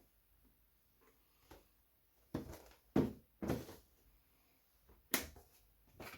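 A few short knocks and rustles of items being handled and set down, about five in all, spread through the second half.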